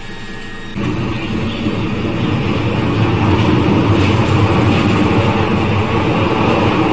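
Glasgow Subway train running through the tunnel, heard from inside the carriage: a loud, steady rumble of wheels and motors that starts abruptly about a second in.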